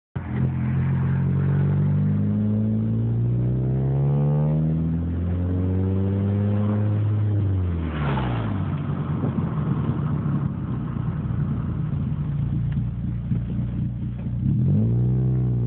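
Turbocharged 2.0-litre four-cylinder of a Hyundai Tiburon through a 3-inch exhaust, pulling hard with the engine note climbing steadily for about seven seconds. The revs then drop, with a brief rushing noise as it comes off the throttle. After a rougher, uneven stretch the revs climb again near the end.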